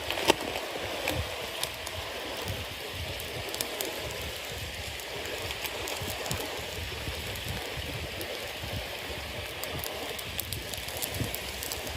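Bonfire of wet cedar leaves and damp firewood burning: a steady hiss under frequent small, sharp crackles, with one louder pop just after the start.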